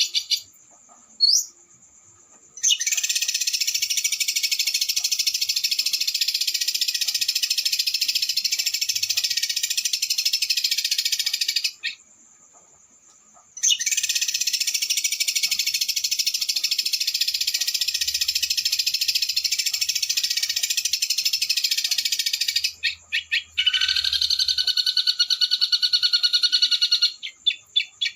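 Small songbird's fast, harsh rolling trill ('roll speed'), high-pitched, in two long unbroken runs of about nine seconds each with a short gap between them. Near the end comes a slightly different rapid trill with a lower note beneath it.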